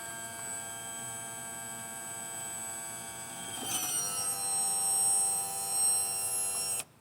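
Electric trim/tilt pump motor of a 1996 Johnson 70 outboard running with a steady whine while it purges air and old fluid through the loosened reservoir cap. A bit over halfway through it gets louder and drops slightly in pitch as it loads up, then cuts off suddenly near the end.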